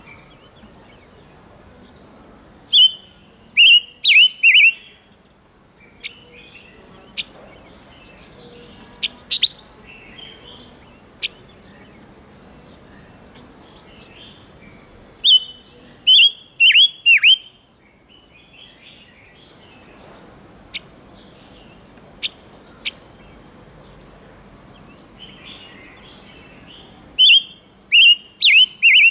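Ngũ sắc songbird singing. Three short bouts of loud, quick, downward-sweeping notes come about twelve seconds apart, with scattered single sharp chirps between them.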